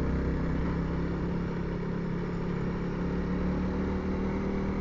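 Honda CRF300L single-cylinder engine running at a steady cruising speed, its pitch drifting only slightly, with wind and road noise. Heard through a Sena helmet intercom microphone over Bluetooth.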